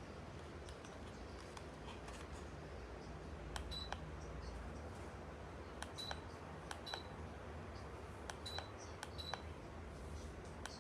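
Button clicks, each followed by a short high beep from the Fanco Rito 3 DC ceiling fan acknowledging a remote command, about six times in the second half, over a low steady hum.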